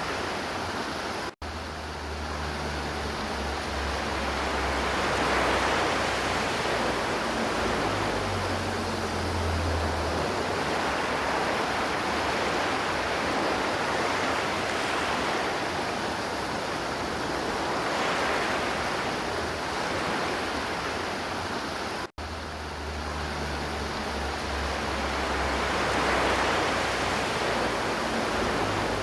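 River water rushing and flowing steadily, with slow swells and a low rumble underneath. The sound cuts out for an instant twice, about a second and a half in and again about 22 seconds in.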